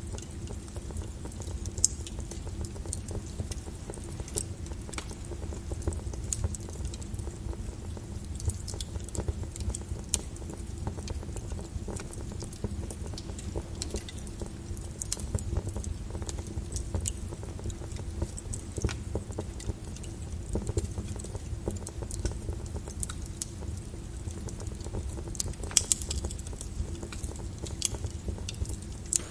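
Wood fire crackling with frequent small pops over steady rain falling on a window, with a low rumble underneath. A sharper pop about two seconds in and another near the end stand out.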